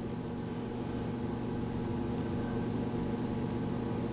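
Steady machine hum, even and unchanging, with a faint tick about two seconds in.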